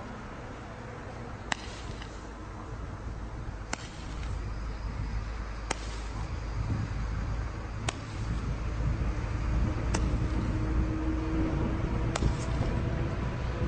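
Consumer firework reports: six sharp cracks about two seconds apart, over a steady low rumble.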